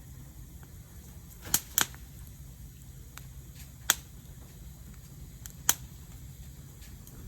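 Wood fire popping: four sharp cracks, two close together about one and a half seconds in, one near four seconds and one near six, over a low steady background noise.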